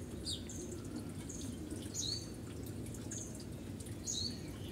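A small bird chirping over and over: short high chirps, each dropping in pitch, roughly every half second, over a low steady background hum.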